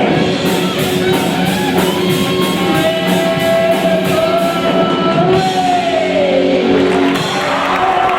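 Live rock band playing, guitar to the fore with drums underneath; a long held high note slides down about six seconds in as the song nears its end.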